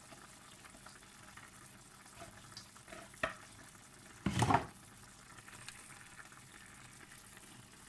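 Pot of chicken adobo simmering on the stove while a spoon stirs it, with a short, loud knock about four and a half seconds in and a smaller one a second before.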